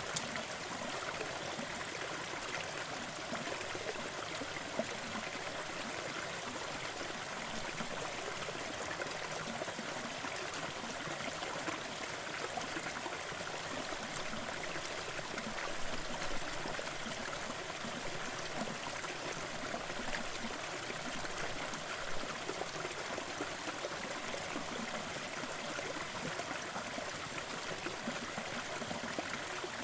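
Waterfall and stream water rushing and splashing steadily, with small splashes dotted through it.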